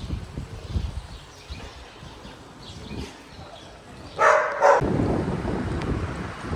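A dog barks twice in quick succession about four seconds in, over a low rumble of wind on the microphone.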